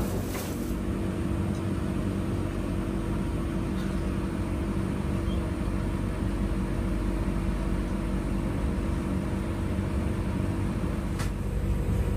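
Steady low droning hum inside a train passenger coach, from the carriage's running equipment, with a single short click about eleven seconds in.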